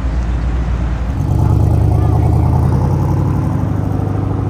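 Car engine and exhaust with a deep, steady rumble. It grows louder about a second in as a car comes close and holds a fairly even pitch rather than revving.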